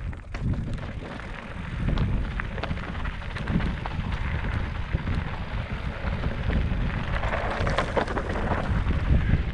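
Wind buffeting the microphone in uneven gusts, with a hiss of wind and a few light clicks over it.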